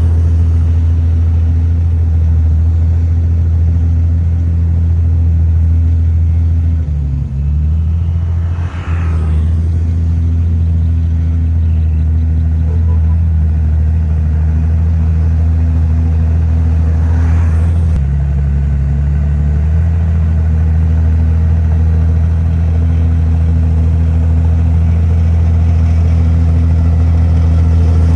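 Heavy diesel engine of an earthmoving machine running steadily with a deep hum. Its pitch dips and recovers about a quarter of the way in and again a little past the middle.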